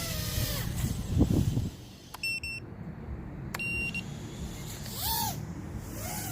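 Two short electronic beeps from the radio transmitter, about a second and a half apart, signalling its low battery, over a steady low rumble. Near the end come two brief rising-and-falling calls.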